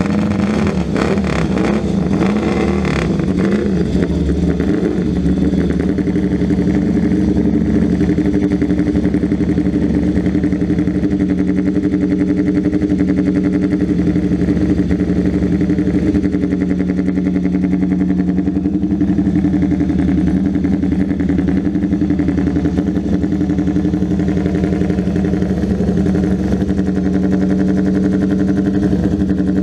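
A 1964 Bianchi 500 (498 cc) twin-cylinder race motorcycle engine running steadily after starting, its pitch wavering only slightly with small throttle changes.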